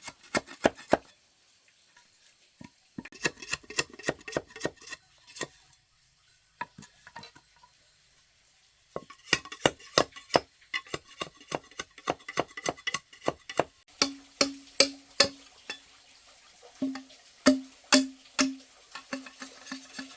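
Bamboo being worked with hand tools: runs of sharp wooden knocks and taps, several a second, broken by short pauses. In the last few seconds the strikes ring with a short hollow tone.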